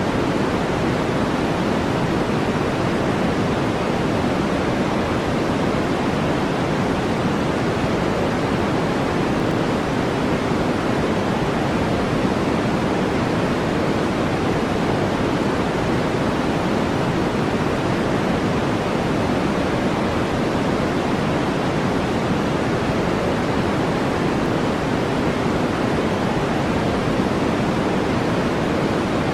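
Steady brown noise: an even, unbroken deep hiss, heaviest in the low-middle range, with no change in level or character.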